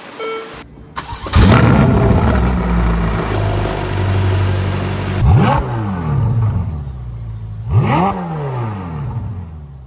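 Ferrari F8 Tributo's twin-turbo V8, heard through a Fi Exhaust valvetronic catback, starting up about a second in with a flare of revs and settling into a steady idle. Two quick throttle blips follow, one past the middle and one near the end, each rising and falling away.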